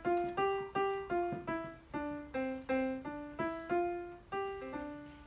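A simple melody played one note at a time on a piano-like keyboard, about three notes a second, each note struck and fading; it stops shortly before the end.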